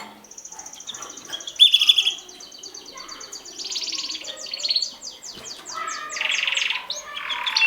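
Mosaic canary singing in fast trills of repeated high notes, changing from one phrase to the next. The loudest notes come about a second and a half in, followed by runs of quick sweeping notes and a buzzy roll near the end.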